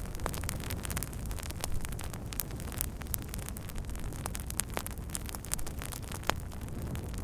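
Wood fire burning: irregular sharp crackles and pops over a steady low noise.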